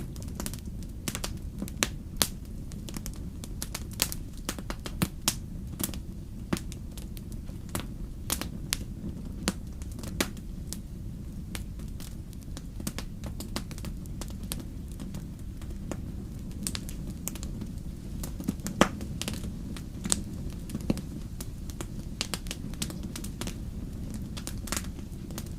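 Wood fire crackling: irregular sharp pops and snaps over a steady low rumble of burning, with one louder pop about two-thirds of the way in.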